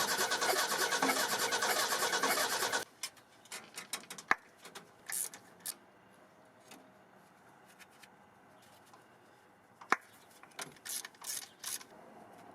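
1978 Ford F-150's engine being cranked on the starter for about three seconds, cutting off sharply without settling into a run. A few light clicks and knocks follow.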